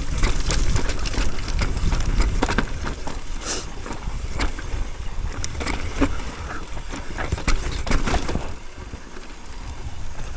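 Mountain bike rattling and clacking down a rough dirt trail, with wind rumbling on the helmet-camera microphone.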